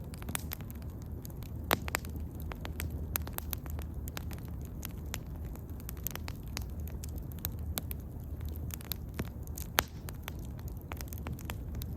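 Wood bonfire burning, with many irregular crackles and snaps over a steady low rumble; two louder pops, about two seconds in and near ten seconds.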